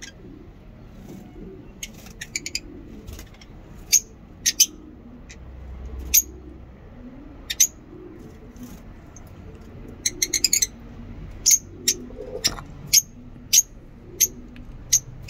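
Lovebirds chirping in an aviary: short, sharp, high chirps at irregular intervals, with a quick run of chirps about ten seconds in and more frequent chirps near the end.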